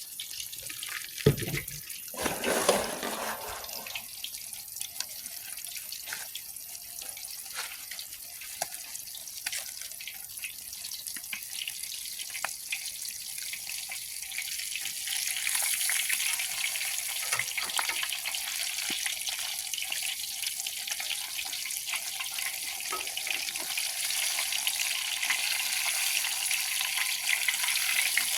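Fish frying in hot oil: a steady sizzle with fine crackling, growing louder about halfway through. A couple of knocks near the start.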